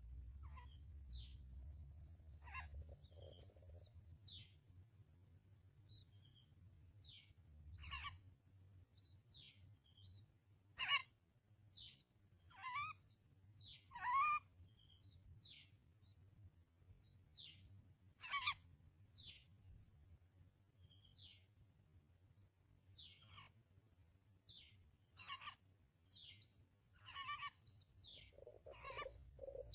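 Faint house sparrow chirps: many short, downward-sliding chirps at irregular intervals, with a few louder ones. Near the end a lower, rapid pulsing sound begins.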